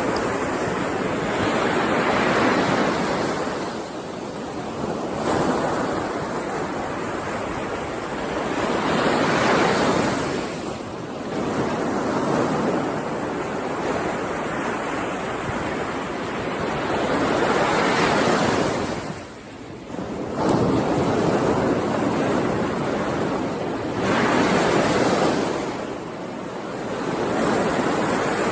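Ocean surf: waves washing in and drawing back, the rush swelling and fading every several seconds.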